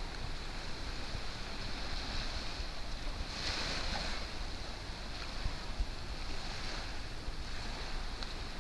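Sea surf washing on a beach, swelling about three and a half seconds in, with wind buffeting the microphone.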